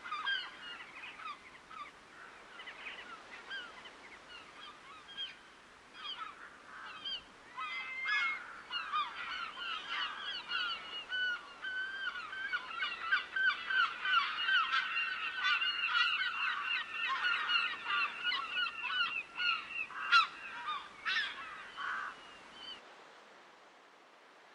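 A flock of geese honking: scattered calls at first, thickening into a dense, overlapping chorus through the middle, then cutting off suddenly near the end, leaving a faint rushing background.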